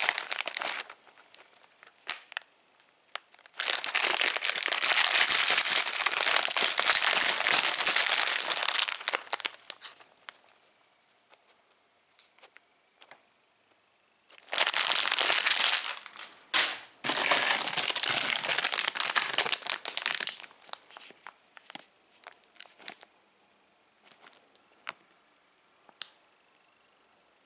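Plastic candy wrappers and packaging crinkling and rustling as they are handled, in long stretches of several seconds, with small clicks and taps in between.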